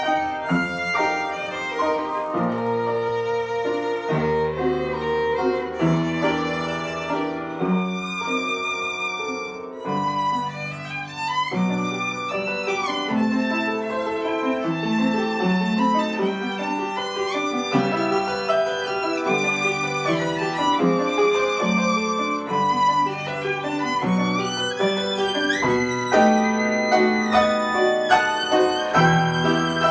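Violin playing a slow, lyrical melody with vibrato over a piano accompaniment of sustained low notes.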